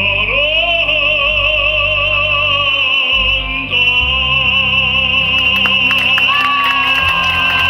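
A singer holding long operatic notes with a wide vibrato over instrumental accompaniment, closing a song. Scattered clapping begins over the last couple of seconds.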